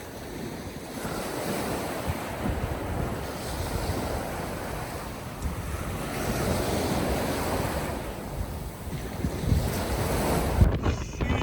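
Surf breaking and washing up the beach, swelling and easing, with strong wind buffeting the microphone.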